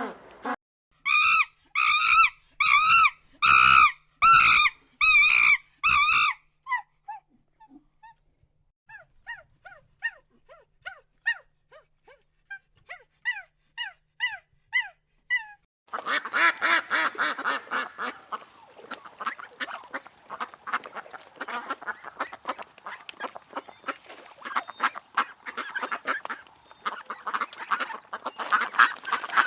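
Waterfowl calling: a run of about eight loud, evenly spaced honks, then softer, shorter calls, and from about halfway many birds calling over one another without pause, like a flock.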